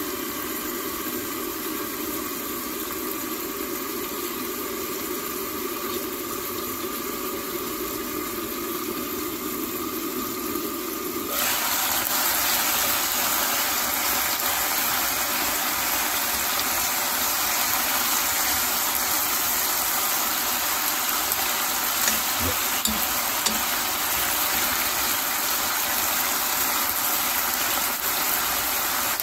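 Cabbage and pork stir-fry sizzling in a pan, muffled under a glass lid at first; about eleven seconds in the sizzle turns suddenly louder and brighter as the pan is uncovered, then runs steadily while it is stirred, with a few light taps of chopsticks.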